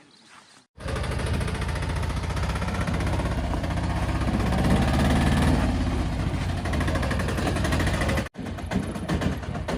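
Heavy diesel engine running close by with a fast, even chugging pulse. It starts abruptly about a second in and breaks off for an instant near the end before carrying on.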